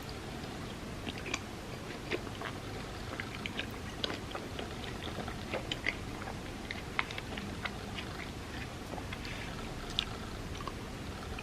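Close-miked chewing of chocolate truffles softened in warm almond milk: many small wet mouth clicks over a steady hiss.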